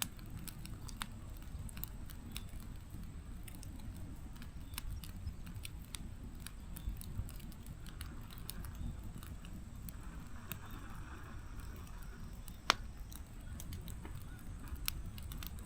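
Firewood burning in a fireplace: a low steady rumble of flame with scattered crackles and pops. One sharp pop comes about three-quarters of the way through, and there is brief hissing twice near the middle.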